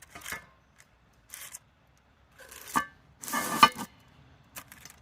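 Cast iron Dutch oven lid being put on, metal scraping and clanking against the pot with a brief ringing tone. The loudest clank and scrape comes about three and a half seconds in.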